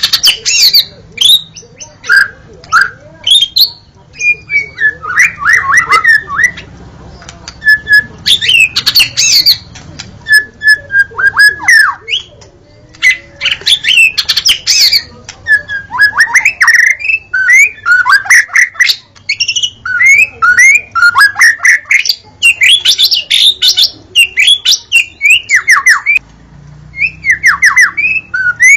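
White-rumped shama singing loudly in rapid, varied phrases of falling whistled notes, slurs and sharp ticks, with short pauses between phrases.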